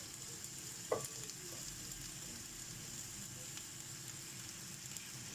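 Steady sizzling of oil in a tagine beneath a layer of sliced carrots and onion, with one light knock about a second in.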